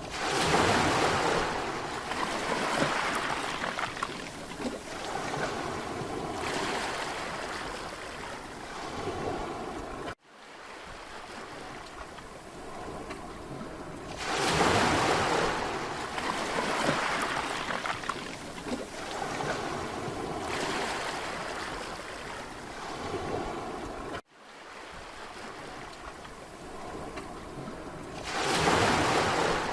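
Sea waves breaking and washing onto a Mediterranean beach, swelling every few seconds. The sound drops out abruptly twice and fades back in.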